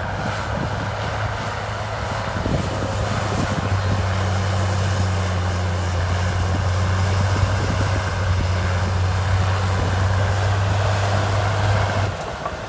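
Heavy diesel engine of earthmoving machinery running steadily under load with a low, even hum, getting somewhat louder about four seconds in and dipping briefly near the end.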